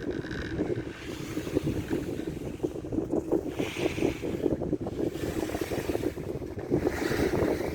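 Wind buffeting the microphone on a moving four-seat chairlift: a steady rough rush that swells and dips in gusts.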